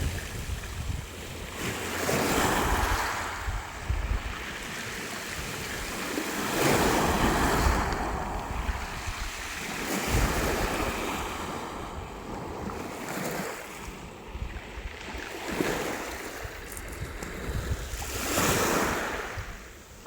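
Sea surf: waves breaking on the shore, the wash swelling and fading every few seconds, with a low rumble of wind on the microphone.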